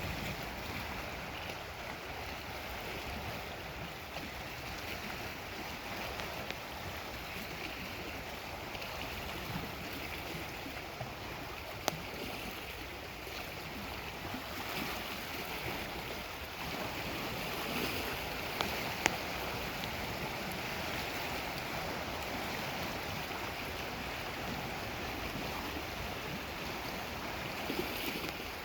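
Lake Superior waves washing against the shore in a steady wash of water noise, with two short sharp clicks, one about twelve seconds in and one near nineteen.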